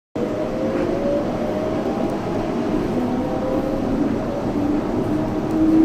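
Yurikamome 7300-series rubber-tyred automated train running, its motor whine rising steadily in pitch as it picks up speed over a steady rumble of running noise. The sound cuts in just after a brief silence at the start.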